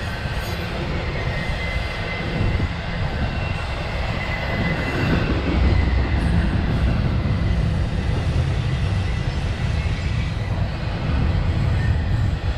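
Intermodal freight train rolling past close by: a steady, heavy rumble of wheels on rail, with a faint high wheel squeal in the first half.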